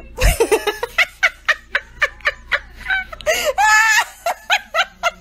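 A person laughing hard in quick repeated bursts, about three a second, with one longer, higher held laugh a little past the middle.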